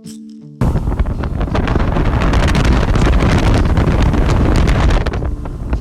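Strong wind buffeting the microphone, a loud rushing roar that cuts in suddenly about half a second in.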